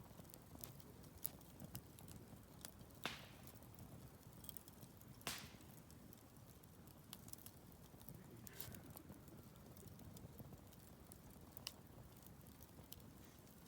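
Wood fire crackling: irregular small snaps and ticks over a faint low rumble, with two louder pops about three and five seconds in.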